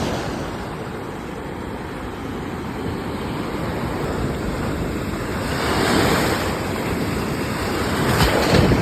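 Ocean surf: a steady rush of waves washing in, swelling louder twice, about six seconds in and again near the end.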